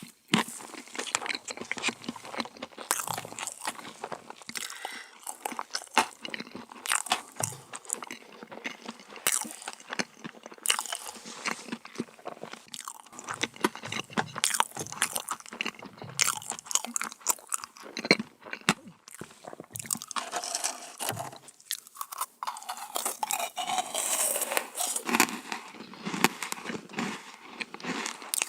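A person eating dessert close to the microphone: bites and chewing, heard as a dense, irregular run of small cracks.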